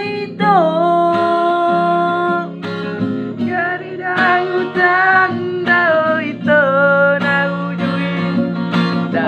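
Batak song: a melody of long held notes that swoop up or down into each note, over acoustic guitar accompaniment.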